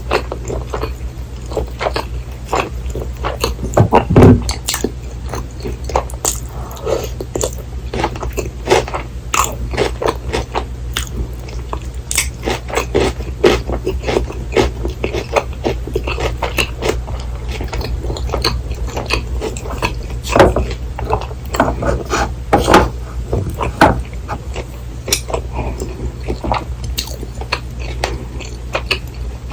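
Close-miked eating of crisp breaded cheese pork cutlet and rice: steady chewing and biting with many sharp crunches and clicks of the fried crust, louder about four seconds in and again around twenty seconds in.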